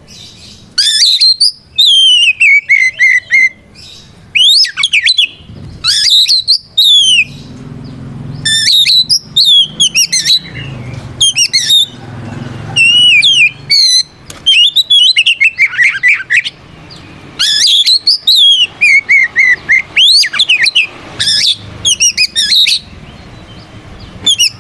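Oriental magpie-robin singing loudly in full song: short phrases of rapid whistles, trills and falling sweeps, one after another with brief pauses between them. This is the bird's challenge song, calling out an opponent.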